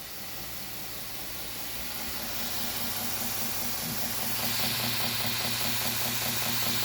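2x72 belt grinder's motor, driven by a 2.2 kW VFD, speeding up as its frequency is turned up: a steady hiss and hum that grows louder over about four seconds and steps up again near the middle, then holds steady.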